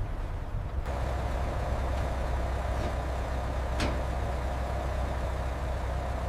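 Engine running with a steady low rumble and a steady hum above it; a sharp click sounds about four seconds in.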